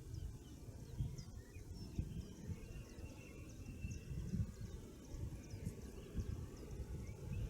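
Morning birdsong near a forest: many short, high chirps and a thin held whistle about three seconds in, faint over an uneven low rumble that is the loudest sound.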